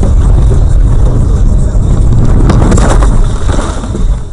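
A car on the move, recorded from inside: a loud low rumble, with a harsh crunching, scraping burst about two and a half seconds in. The level falls away near the end.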